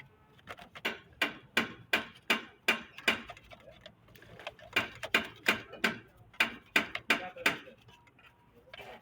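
Stiff brush scrubbing a car engine during washing: quick back-and-forth strokes, about three a second, in two runs with a short pause between them.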